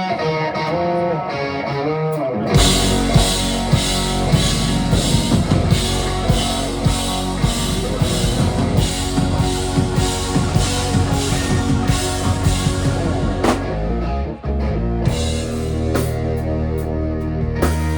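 Rock band playing live, guitar and bass with a drum kit. A melodic guitar line opens, and the drums and bass come in about two and a half seconds in. There is a brief break about fourteen seconds in, after which the guitar and bass carry on with lighter drumming.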